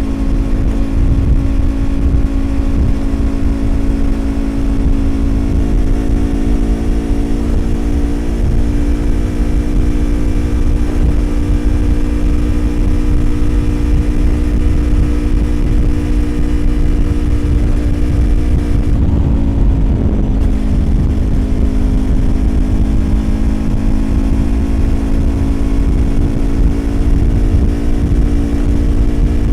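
Yamaha YZF-R25's 250cc parallel-twin engine through a Prunus aftermarket exhaust, cruising at steady revs under heavy wind rush on the microphone. About two-thirds of the way through, the note dips briefly and then settles a little lower.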